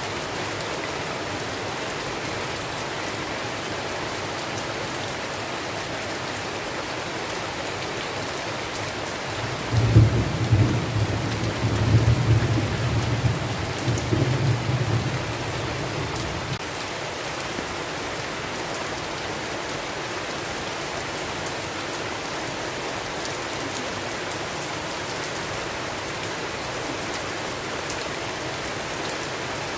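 Steady heavy rain falling, with a roll of thunder about ten seconds in that rumbles low and loud for around seven seconds before fading back into the rain.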